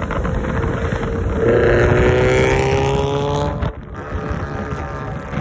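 Car engine at full throttle on the highway during a rolling race, its pitch climbing steadily for about two seconds, then cutting off suddenly near the end. Heavy road and wind rumble runs underneath.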